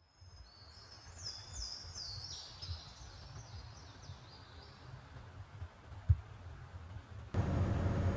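A songbird singing a run of high, down-slurred notes over a low rumble for about the first five seconds. There is a single sharp thump about six seconds in. Just past seven seconds the sound cuts abruptly to a louder, steady rushing noise.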